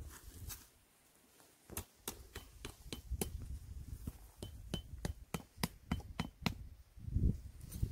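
Tent pegs being hammered in: a run of sharp metallic taps, about three a second, some with a brief ring, starting about two seconds in. A louder low rustle follows near the end.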